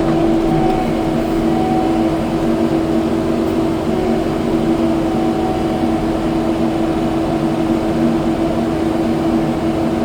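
Kubota skid steer's diesel engine running steadily at a constant speed, a continuous drone with no change in pitch.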